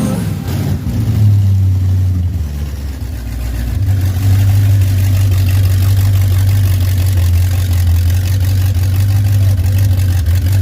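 Vehicle engine running with a steady deep drone; it eases off for a moment about two and a half seconds in, then holds steady again from about four seconds on.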